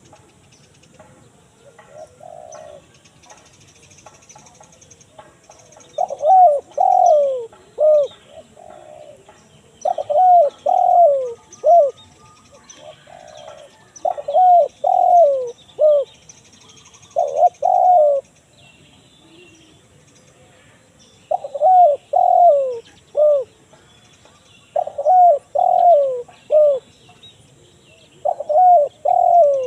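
Spotted dove (tekukur) cooing in the 'kuk 1 mersik' song type: repeated phrases of three or four falling coos, about every three to four seconds. Small birds chirp faintly in the background.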